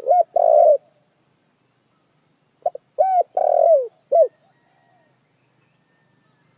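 Spotted dove cooing: two phrases of low coos, one at the start and another about two and a half seconds in, each a few short notes around a longer drawn-out one.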